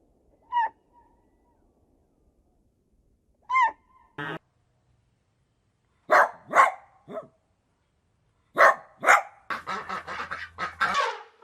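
Dog barking: two single high yelps, then barks in pairs, then a quick string of barks near the end.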